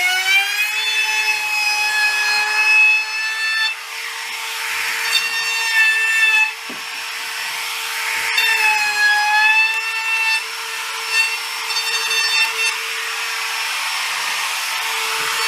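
A high-speed electric power tool motor running steadily on wood, its whine climbing and settling early on as it comes up to speed, with spells of cutting or rubbing noise as it works the wood every few seconds.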